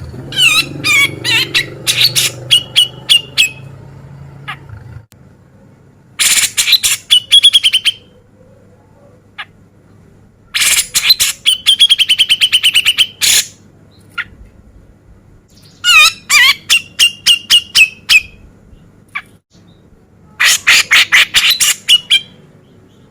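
Cucak jenggot (grey-cheeked bulbul) singing in five loud bursts a few seconds apart, each a fast run of sharp, harsh notes ending in a rapid trill.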